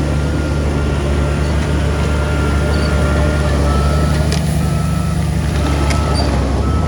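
Heavy diesel earthmoving machinery running steadily with a low hum, and a reversing alarm that starts beeping about four seconds in, roughly one beep a second.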